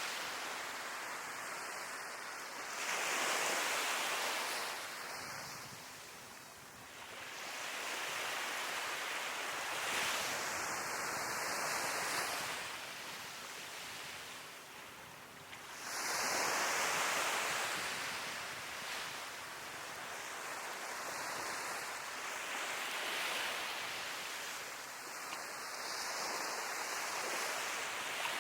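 Sea waves breaking on a beach, the surf swelling and falling back every several seconds, with the loudest breakers about three seconds in and again about sixteen seconds in.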